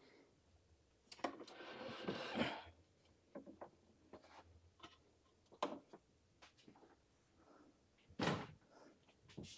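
Handling noises: a rustling, scraping stretch lasting about a second and a half, starting about a second in, then scattered light knocks and one louder thump about eight seconds in.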